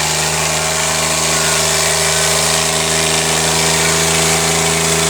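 Diesel tractor engines held at steady high revs while pulling against each other in a tractor tug-of-war.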